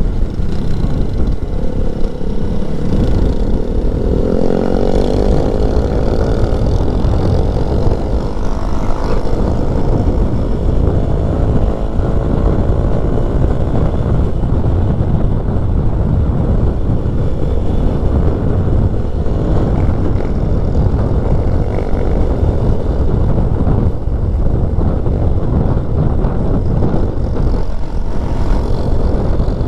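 Keeway 152 motorcycle engine running on the move, its pitch rising and falling with throttle and gear changes, under heavy wind rumble on the helmet-mounted microphone.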